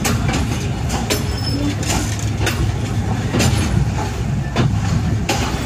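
Passenger train carriage rolling slowly along a station platform, heard from its open door: a steady low rumble of the wheels on the rails, with sharp clacks over rail joints at irregular intervals, roughly once a second.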